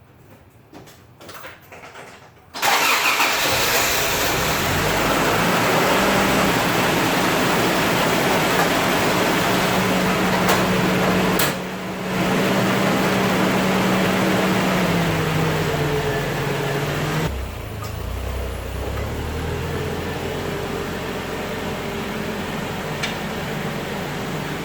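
A Toyota AE86 Corolla's four-cylinder engine starts suddenly about two and a half seconds in, on its first start after a fresh oil and filter change. It runs at a steady high idle that slides down to a lower idle about two-thirds of the way through.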